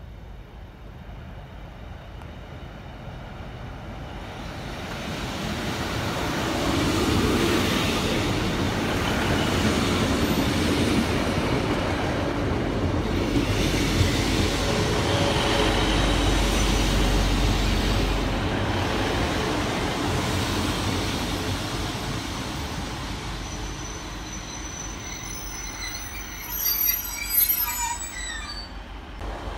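Northern Class 150 diesel multiple unit arriving at a station platform. Its engine and wheel noise grow as it approaches and stay loud as the carriages run past. It then slows, and short high-pitched brake squeals come near the end as it comes to a stop.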